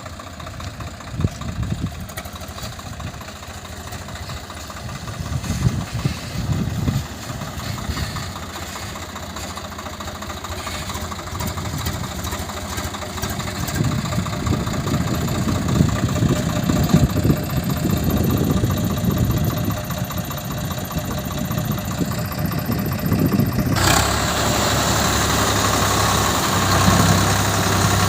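An engine running steadily and slowly growing louder; about four seconds before the end a sudden hiss starts and continues.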